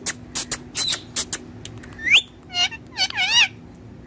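Pet parrot calling: a run of short harsh bursts, then a rising whistle about two seconds in and a quick burst of warbling whistled notes around three seconds in.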